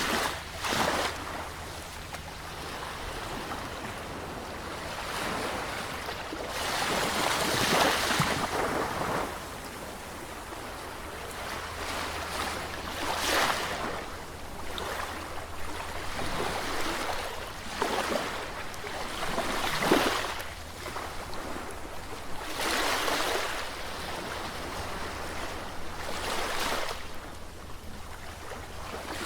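Sea waves breaking and washing in, a surge of surf every few seconds over a steady rush of water.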